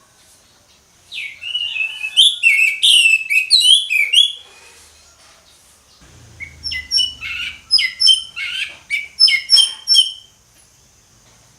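Orange-headed thrush singing loudly in full song: two runs of rapid, varied whistled notes, one starting about a second in and one about six seconds in.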